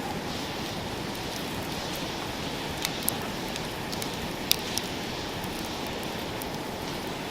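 Campfire burning with a steady rushing hiss, broken by a few sharp crackling pops, the loudest about four and a half seconds in.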